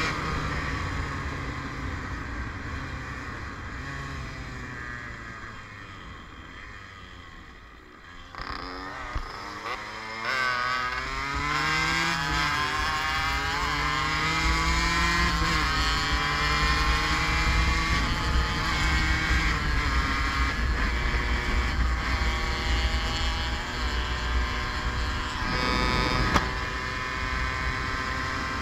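Yamaha DT 50's 50cc two-stroke single-cylinder engine heard while riding. Its note sinks and fades as the bike slows, then about eight seconds in the engine picks up and climbs in pitch through the gears. It settles into a steady cruising note, with short pitch steps at the gear changes.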